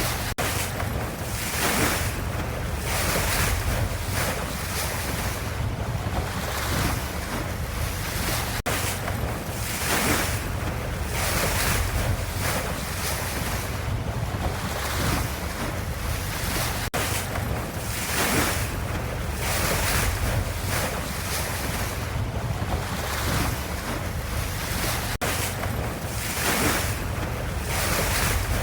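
Ocean waves: a continuous rush of surf that swells and eases every second or two.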